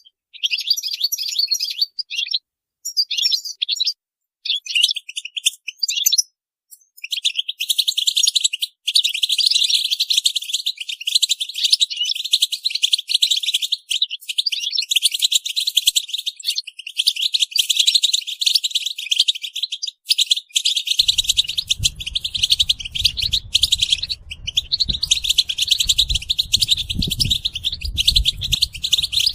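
European goldfinches chattering and twittering together. The calls come in short broken phrases at first, then turn dense and almost unbroken. A low rumble joins about two-thirds of the way through.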